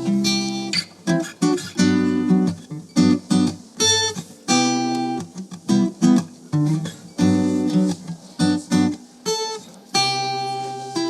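Guitar strumming a chord riff in short rhythmic phrases, some chords held and others cut off quickly.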